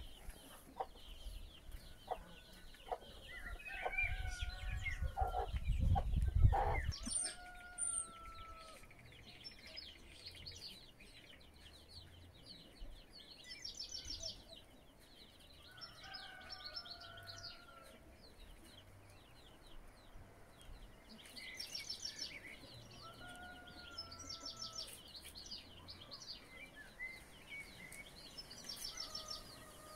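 Several birds calling: a short call that falls slightly in pitch, repeated every few seconds, and bursts of rapid high chirping. A low rumble about four to seven seconds in.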